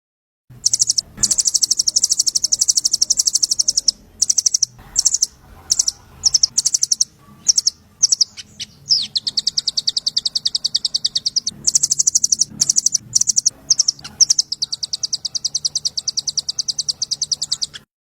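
Small songbird singing rapid 'trotol' trills: long runs of fast, evenly repeated high notes, broken by short pauses and a few separate calls about halfway through. It is a masteran song used for tutoring murai and other cage songbirds.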